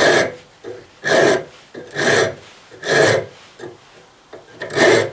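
Hand file rasping over a freshly brazed joint on a metal oil line, in strokes about one a second, smoothing down the lump of braze. There is a longer pause before the last stroke near the end.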